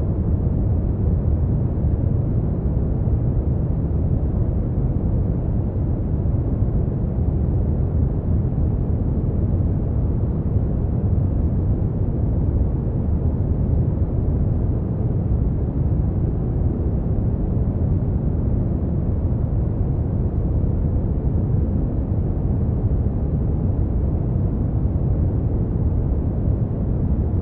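Brown noise: a steady, deep rushing hiss, heaviest in the bass and dull in the treble, with no changes.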